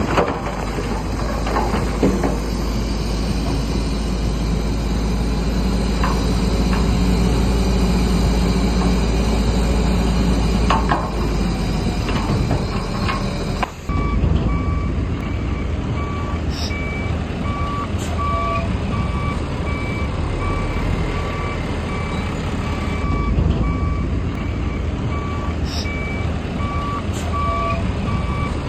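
Diesel engine of heavy earthmoving machinery running under load, with a few knocks and clanks. About halfway through the sound cuts, and a reversing alarm starts beeping steadily, roughly once a second, over the engine.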